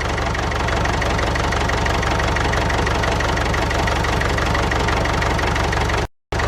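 Tractor engine idling steadily with a fast, even knock, cut off abruptly for a moment near the end.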